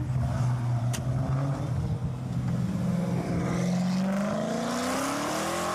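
Supercar engine running at a steady low speed, then revving up in one long, smooth rising climb from about two seconds in as the car accelerates.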